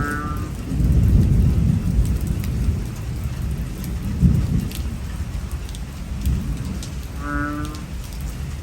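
Heavy rain pouring, with a low rumble of thunder that is loudest in the first few seconds. A brief pitched tone sounds twice, at the start and again near the end.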